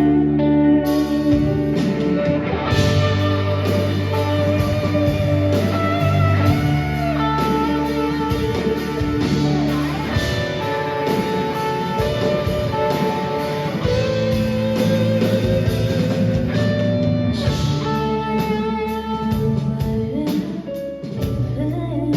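Live rock band playing an instrumental interlude with no singing: a guitar carries the melody over bass and drums.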